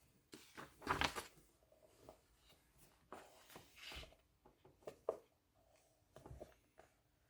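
Pen on paper at a desk: irregular scratching strokes, rustles and light taps, the loudest a short rustle about a second in.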